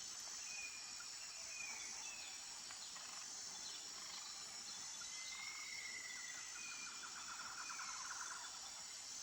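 Forest ambience: a steady, high-pitched insect chorus, with a few short bird whistles and a fast rattling trill a little past the middle.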